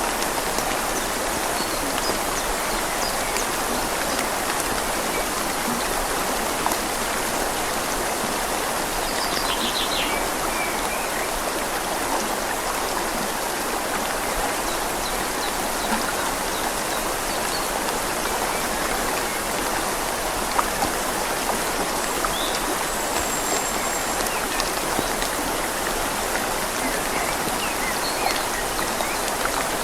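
Steady rain falling on leaves, mixed with the gentle flow of a river, with scattered ticks of single drops.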